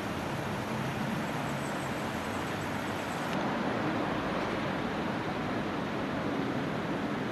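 Steady street traffic noise: an even rumble and hiss with no distinct events, a little louder about halfway through.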